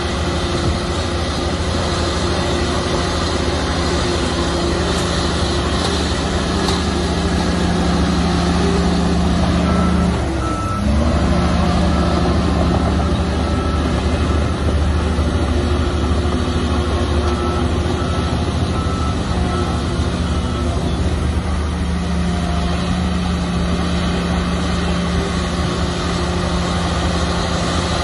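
Heavy diesel engine of a bulldozer running steadily under load, dropping briefly about ten seconds in and then picking up again. A reversing alarm beeps in two spells, from about ten to twelve seconds and again from about seventeen to twenty-one seconds.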